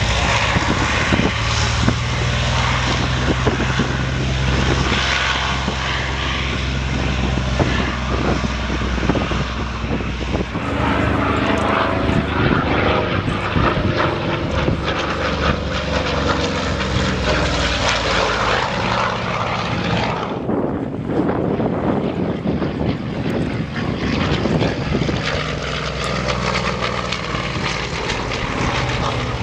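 Piston-engined WWII-era propeller fighters flying a display, a continuous loud engine drone. The engine note changes about ten seconds in, and the higher part of the sound drops away about twenty seconds in.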